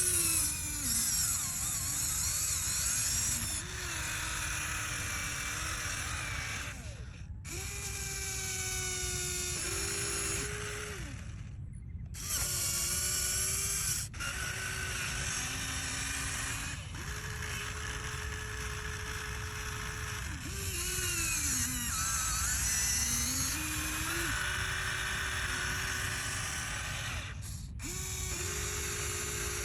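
Small electric motors and gearboxes of mini RC construction vehicles whirring, speeding up and slowing down in pitch as they drive and work. The sound breaks off abruptly several times.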